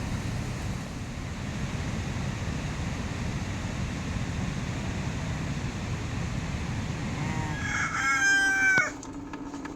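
A rooster crowing once near the end: a single call lasting about a second that rises, holds and cuts off sharply, over a steady low background noise.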